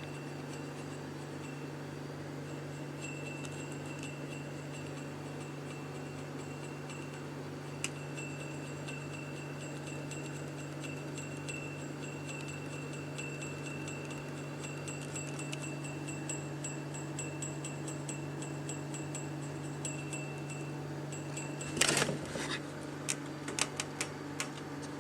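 Steady low hum with a faint high whine. About 22 seconds in comes a sudden loud clatter with a brief ringing, followed by several lighter clicks.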